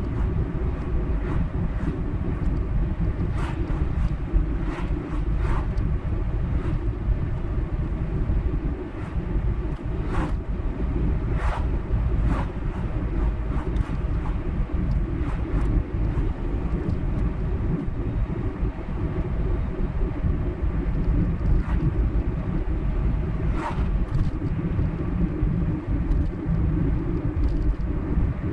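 A car driving at road speed: a steady low rumble of tyres and engine, with scattered light clicks.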